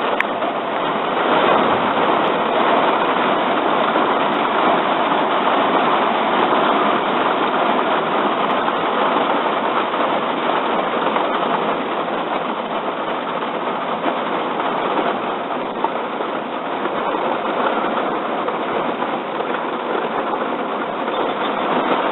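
Heavy rain drumming on the van's roof, heard from inside as a loud, steady hiss.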